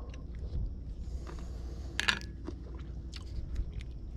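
Person chewing a mouthful of chicken bacon ranch pasta salad close to the microphone: a run of small irregular mouth clicks, with a sharper click about two seconds in.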